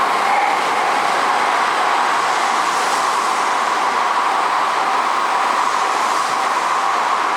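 An N700-series Shinkansen train passing through the station at speed without stopping: a loud, steady rush of wheels on rail and air that holds at an even level.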